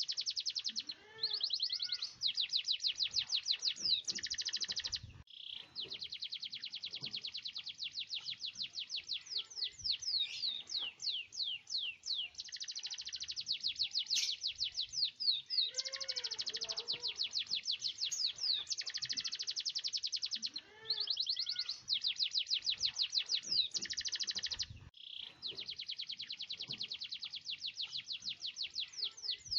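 Domestic canary singing in long rolling trills and rapid sweeping notes, almost without pause, breaking off briefly twice.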